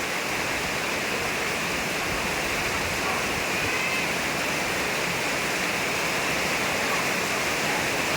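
Rain pouring down steadily in an even rushing hiss, with no let-up.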